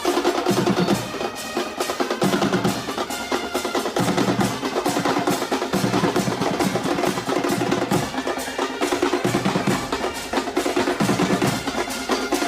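Drum-heavy rhythmic music: fast snare strikes and rolls over a low beat that repeats about every second and three quarters.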